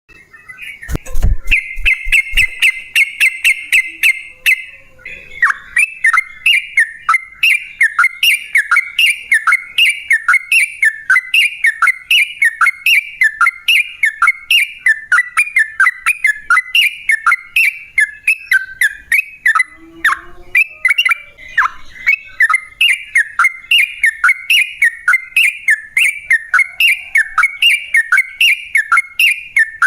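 Yellow-vented bulbul (trucukan) singing loudly. A fast, steady chattering trill lasts a few seconds and gives way to a long unbroken run of repeated falling notes, about two a second. A few low thumps come near the start.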